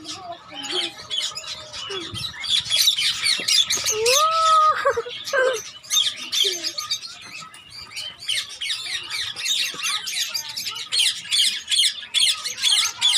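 A flock of lovebirds and parrots in an aviary chattering and squawking in a dense, continuous mass of short high chirps, with a louder, lower drawn-out call about four seconds in.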